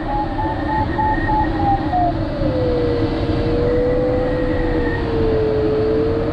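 Flight variometer giving quick, even beeps at a high pitch for about two seconds, the sign of climbing in the thermal. The tone then slides down into a lower, steady, slightly wavering tone as the climb fades, all over loud wind rushing past the microphone.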